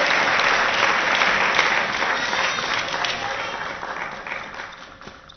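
Spectators in a hall applauding, the clapping fading away over about five seconds, with one sharp tap near the end.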